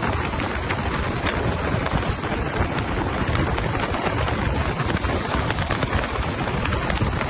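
Wind buffeting the microphone while riding: a steady, rumbling rush with small clicks and rattles throughout.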